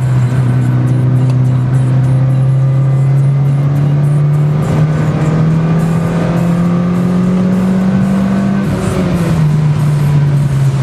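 Mitsubishi Lancer Evolution IX's turbocharged four-cylinder engine heard from inside the cabin, holding steady revs, then pulling with slowly rising pitch for about four seconds before the revs fall back near the end.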